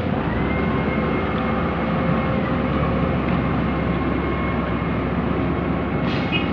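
Heavy diesel engine running steadily at working revs, with a faint steady whine over a deep rumble.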